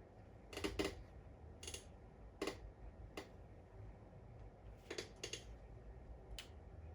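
Keys being pressed on a laptop keyboard: about eight short, sharp clicks at irregular intervals, some in quick pairs.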